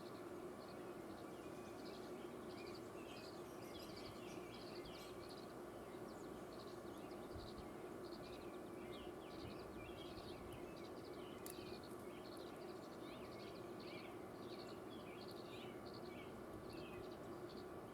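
Small birds chirping over and over, faint, over a steady background hum.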